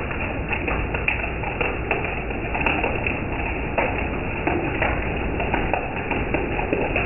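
Rain falling steadily, with many separate drops heard as quick ticks over an even hiss.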